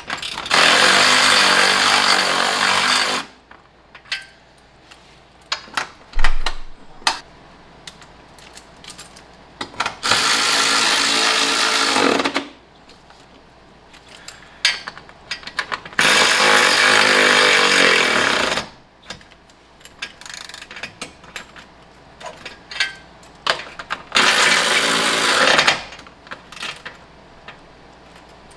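A power tool runs in four bursts of two to three seconds each, driving the bolts of an engine mount. Clanks and clicks from handling tools and parts come between the bursts.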